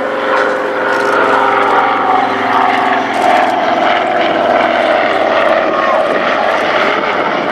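Piston engines and propellers of a de Havilland Dragon Rapide and an Avro Anson flying past in formation: a loud, steady multi-engine drone whose pitch sags slightly as they pass.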